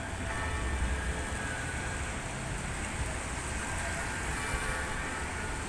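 Steady rain hiss over a low rumble, with a faint steady whine from a Metrolink M5000 tram passing along the street.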